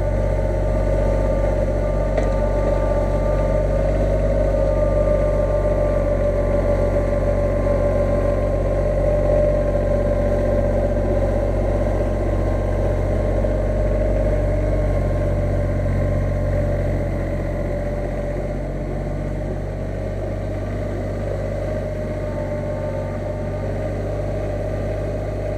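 Backhoe engine running steadily at a constant speed, easing slightly quieter about two-thirds of the way through.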